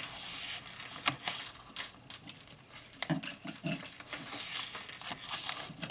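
Paper pages and paper ephemera of a handmade junk journal rustling as they are handled and turned, with many small taps and clicks.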